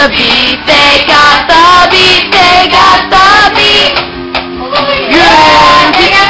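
Young girls singing loudly and close to the microphone, their voices sliding up and down in pitch in short sung phrases.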